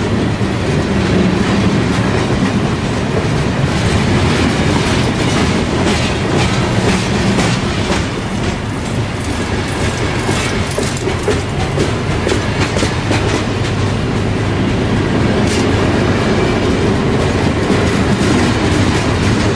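Coal train's hopper cars rolling past, steel wheels clicking over rail joints above a steady rumble.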